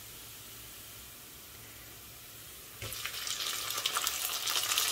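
Onions and whole spices frying in hot oil with a low, steady hiss. About three seconds in, chopped tomatoes are tipped into the pot and the oil breaks into a loud, crackling sizzle.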